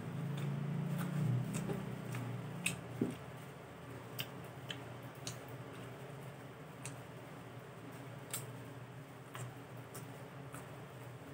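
Close-up mouth sounds of a person eating raw cucumber: irregular sharp clicks and smacks of biting and chewing, over a low hum that is louder for the first two seconds.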